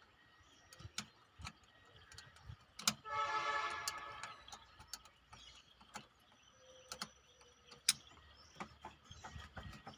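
Faint clicks and small knocks of a flat screwdriver and hands working the air cleaner hose clamp off a Toyota 2C diesel's intake. About three seconds in, a brief squealing tone sounds for about a second and a half, fading as it goes.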